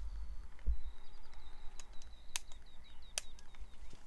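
Quiet outdoor ambience: a run of faint small bird chirps over a low rumble, with three light clicks.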